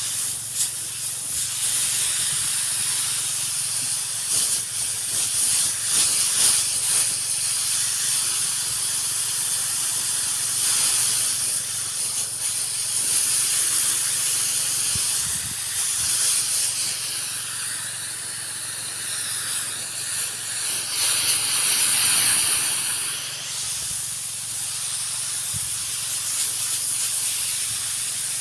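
High-pressure spray hissing steadily from the nozzle of a motorised crop sprayer as pesticide is sprayed on chili plants, swelling and easing as the spray is swept about. A faint steady hum of the sprayer's pump engine runs underneath.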